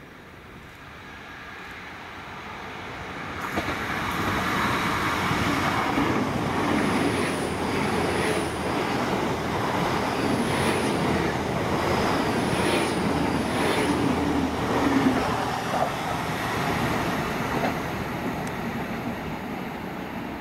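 A diesel train running by on the line close at hand: its sound builds over the first few seconds and then holds steady, with repeated clicks of wheels over rail joints and a few short, high wheel squeals. It eases off slowly near the end.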